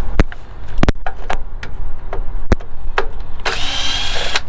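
Sharp clicks and knocks of tools being handled, then a power tool whirs for about a second near the end.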